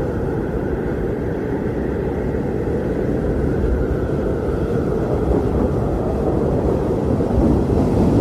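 Strong blizzard wind blowing steadily as a deep, low rush with little hiss, swelling slightly near the end.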